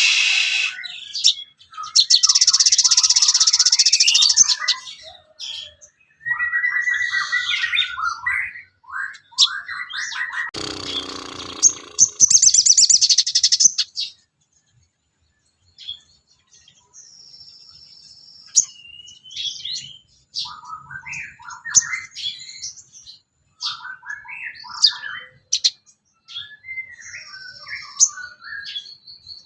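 Sogon songbird singing a varied run of chirps, rapid trills and short whistles, with a harsher, noisier phrase about a third of the way in and a brief pause just before the middle.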